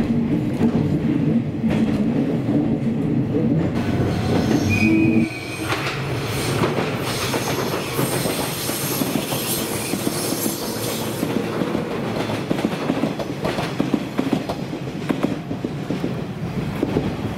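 Inside the cab of a 185 series electric train running along the line, with a steady hum from the running gear and a short beep near the end of the cab section. About five seconds in, the sound changes to a 185 series passing by on the track: a rush of wheel and rail noise with high squealing and hissing, which then fades as the train moves away.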